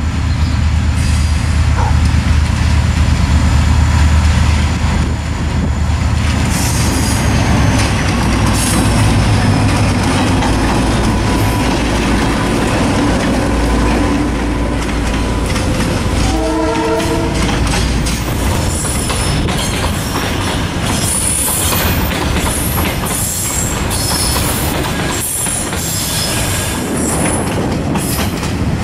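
Freight train passing on light 70 lb branch-line rail. The two GM diesel-electric locomotives, a DFB and a DC, are loudest in the first few seconds. Then the wagons roll by with wheels clicking over the rail and high-pitched wheel squeal in the later part. A short horn blast sounds about halfway through.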